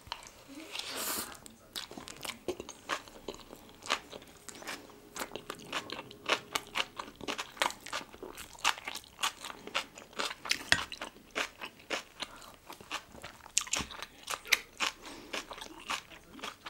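Close-miked chewing and crunching of crunchy food, the yeolmu (young radish) kimchi bibimbap, as many quick, irregular crunches.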